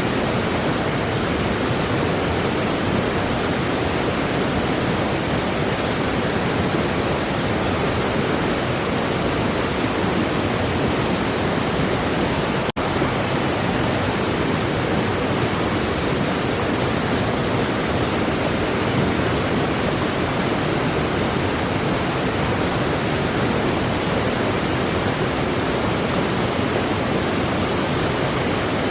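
Steady, even rushing noise with no distinct tones or clicks, broken by a split-second dropout about halfway through.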